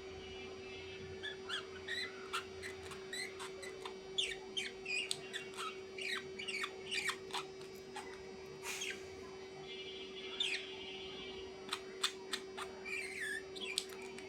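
Small birds chirping and squeaking, many short quick calls in irregular runs, over a steady hum. A few sharp clicks about nine and twelve seconds in.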